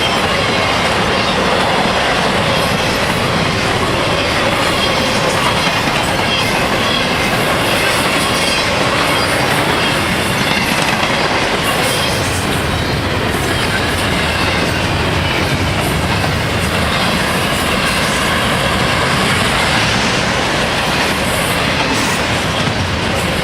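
A train's cars rolling past with a steady loud rumble, the wheels clattering over the rail joints.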